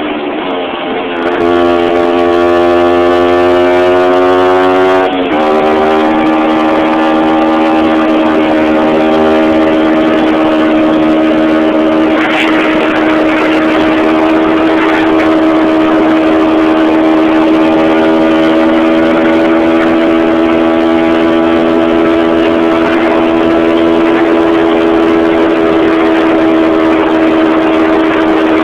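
1971 Suzuki TS250's two-stroke single-cylinder engine running. Its pitch climbs slowly for a few seconds and drops back suddenly about five seconds in. After that it runs steadily at an even pitch.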